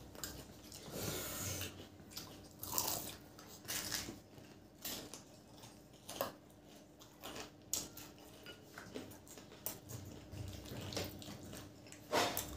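Two people biting into and chewing fried potato samosas: irregular crisp crunches of the pastry and chewing sounds, with one louder crunch near the end.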